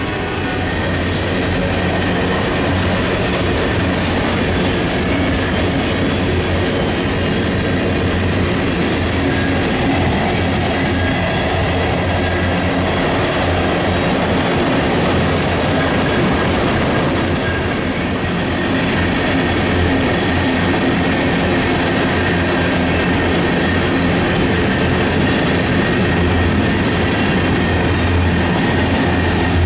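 Freight train rolling past at close range, a steady, continuous noise of wheels and cars on the rails with a low hum underneath.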